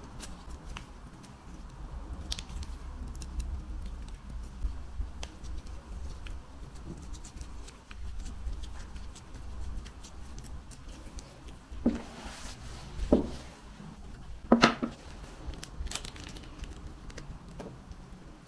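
Handling sounds of a small screwdriver and a metal spectrophotometer lamp housing being worked on by hand: scattered small clicks and scrapes, with a few louder knocks and a brief rustle past the middle.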